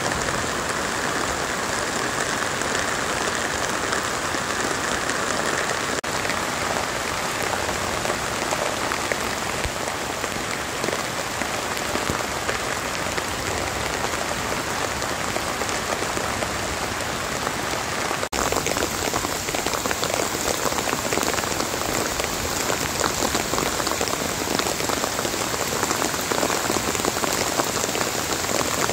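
Steady rain falling on leaves and ground, an even dense patter. The sound shifts slightly at an edit about two-thirds of the way through.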